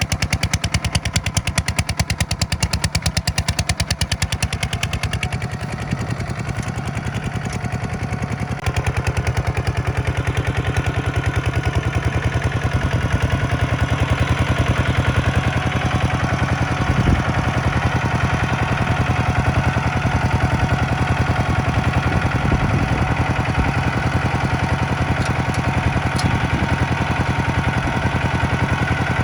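Tractor diesel engine running steadily with a rapid, even clatter of firing pulses, getting a little louder about eight seconds in.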